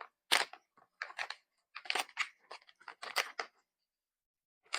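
Plastic candy packaging being handled and opened: a quick, irregular run of sharp crinkles and crackles, which stop for about a second near the end.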